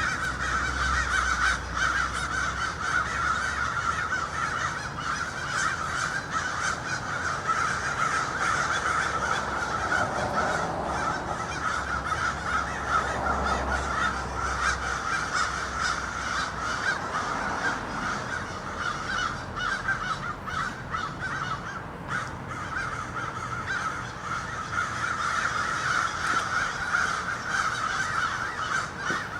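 A flock of American crows cawing continuously, many calls overlapping, which the recordist takes for alarm calls warning the others of a hawk hovering overhead. A low hum sits underneath for about the first half.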